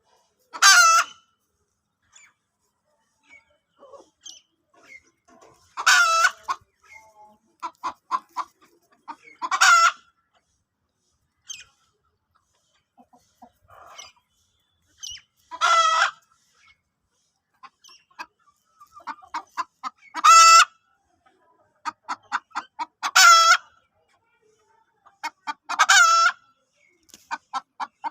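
Chickens clucking in quick runs of short notes, broken about every three to five seconds by a loud, harsh call about half a second long.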